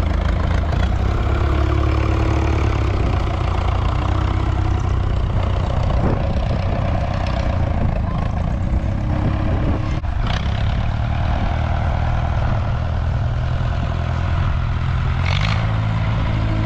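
A vehicle engine running steadily, with a couple of brief knocks.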